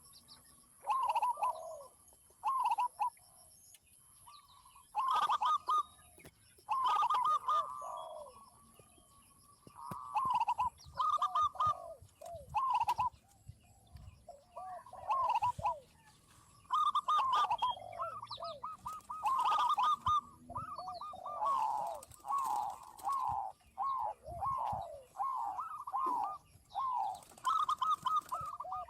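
Zebra doves and spotted doves cooing, several birds calling in repeated trilled phrases in bouts with short pauses between them.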